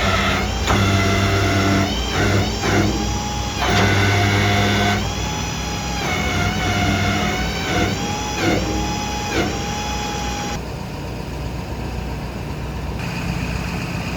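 The truck's 6.7 L Power Stroke V8 diesel running, with a whine over it that dips in pitch and recovers several times.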